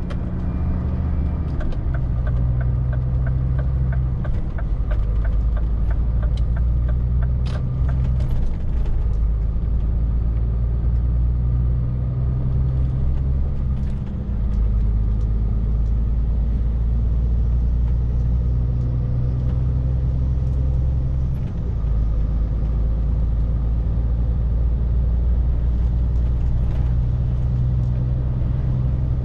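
Scania R450 truck's 13-litre inline-six diesel running under way from the cab, a steady low drone with brief lulls about halfway and three-quarters through. Over the first several seconds there is a regular ticking at about two a second.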